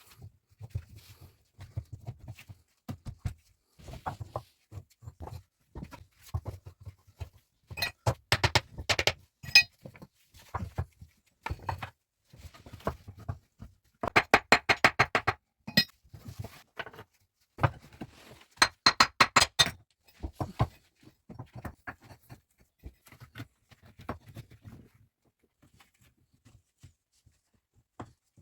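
Irregular clinks, clicks and light knocks of objects being handled, with dense runs of rapid clicking about eight, fourteen and nineteen seconds in, thinning out near the end.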